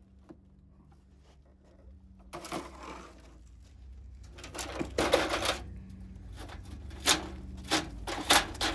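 Clattering and sharp knocks of hard objects being handled, starting about two seconds in and growing busier, over a low steady hum.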